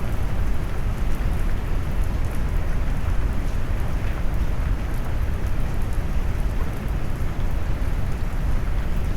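Steady rain mixed with deep brown noise: an even, unbroken wash that is heaviest in the low rumble, with faint scattered raindrop ticks on top.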